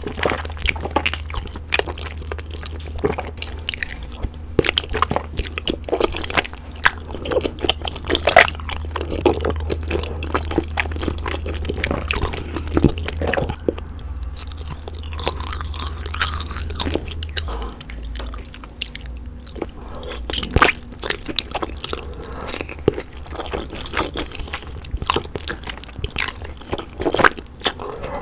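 Close-miked chewing of thick, chewy glass noodles (bunmoja and Chinese glass noodles) in a cheesy rose sauce, with many short wet clicks and smacks of the mouth.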